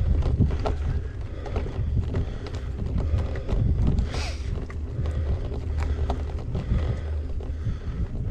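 Gravel bike riding over a rough off-road track: a steady low rumble from the tyres, with frequent small clicks and rattles, and a short hiss about four seconds in.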